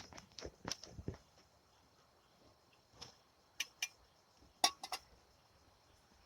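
A run of light clicks and knocks in the first second, then a few sharp clicks near the middle and a quick cluster of them a little later, like small hard objects being handled and set down. A faint steady high tone sits underneath.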